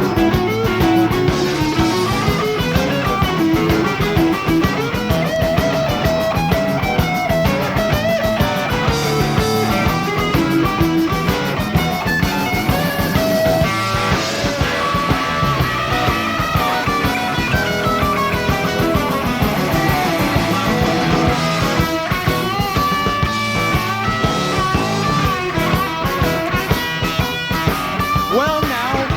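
Rock band playing live in an instrumental break: an electric guitar lead with bending notes over bass guitar and drums, with no vocals.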